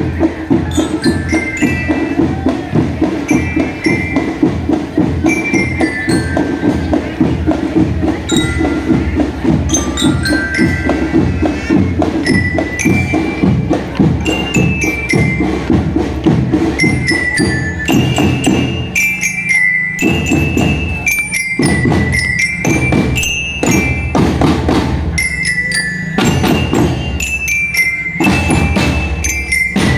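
Marching drum band playing: a glockenspiel-like bell melody over rapid snare and bass drum strokes. About two thirds of the way through, the fuller accompaniment drops away and the drums play on with short breaks.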